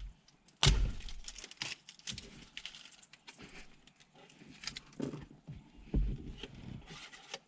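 Small screws rattling and clicking in a box as hardware is handled, with a few sharp knocks, the loudest about a second in and near the end.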